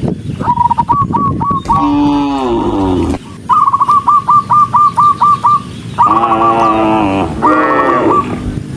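A bird calling in rapid runs of short, repeated notes, about four or five a second, loud and close. Between the runs, cattle low with deep, falling moos.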